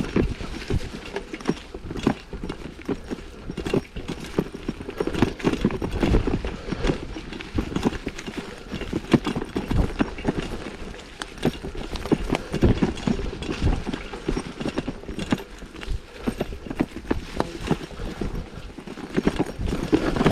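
Mountain bike rattling and clattering over a rough dirt trail: many quick, irregular knocks with a low rumble underneath.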